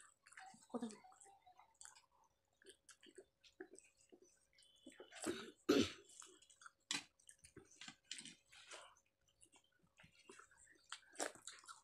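Soft chewing and mouth smacks from two people eating rice and dal by hand, with scattered small clicks. A louder mouth or throat noise comes about five to six seconds in, over a faint steady hum.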